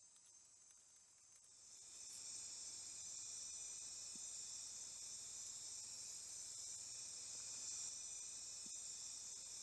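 Night insect chorus of crickets and other insects: steady, high-pitched layered trilling at several pitches, swelling up about two seconds in and then holding steady.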